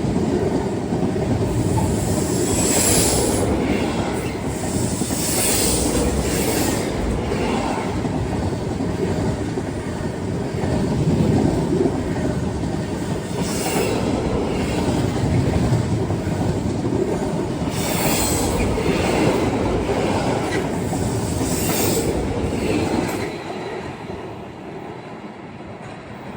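Freight train hauled by Freightliner Class 66 66531 passing through, its wagons rumbling and clattering over the rails with repeated brief wheel squeals. The sound falls away near the end as the last wagons go by.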